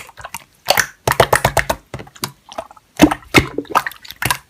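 Slime being squeezed and pressed by hand, giving rapid, irregular crackling clicks and wet squishes in several dense runs.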